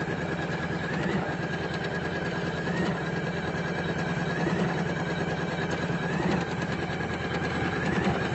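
Usha Janome Memory Craft computerized embroidery machine stitching out a design: a steady, rapid needle chatter over the motor hum, with a short rising whine about every second and a half.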